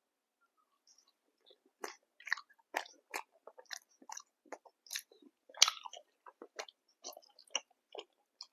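Close-miked mouth sounds of a person eating: rapid, irregular crunchy chewing and biting that starts about two seconds in.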